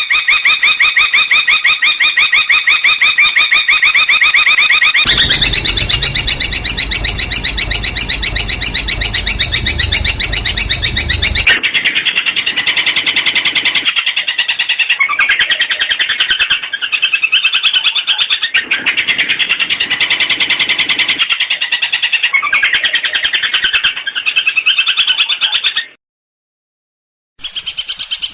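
Long-tailed shrike (cendet) singing rapid, unbroken strings of high, sharply repeated notes. A low rumble sits under the song for several seconds in the middle. The song breaks off briefly near the end, then resumes.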